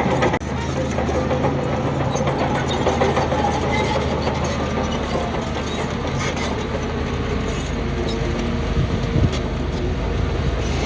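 Heavy diesel engine of earthmoving machinery running steadily, with a brief dropout about half a second in.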